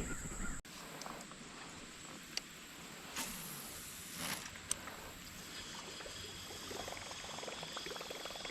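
Small knocks and clicks of fishing tackle in a kayak on the water, with a short rush of water noise about three seconds in. A faint steady insect trill comes in during the second half.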